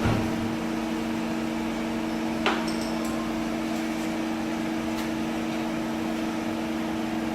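CNC lathe machine running with a steady two-tone hum, broken by three sharp metal clicks or taps, the loudest about two and a half seconds in.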